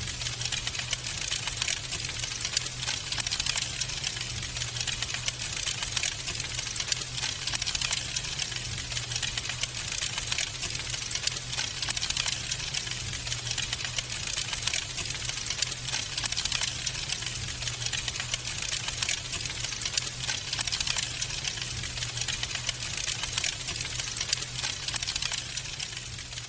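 Wood fire in a fireplace crackling densely with many small, rapid pops and a few louder snaps, over a steady low rumble.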